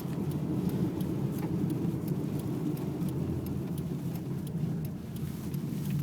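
Steady low rumble of a car's engine and tyres on a snow-covered road, heard from inside the cabin, with faint scattered ticks.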